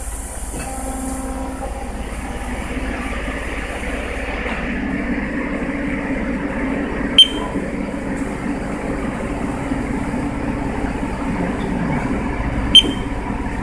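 Haas CNC lathe running a facing cut on a friction-welded part, a steady machining noise that gets slightly louder a few seconds in. Two sharp clicks stand out, one about halfway and one near the end.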